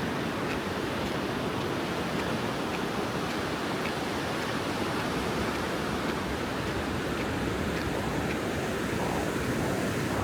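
Ocean surf washing onto a beach as a steady roar of wave noise, with faint light ticks about twice a second.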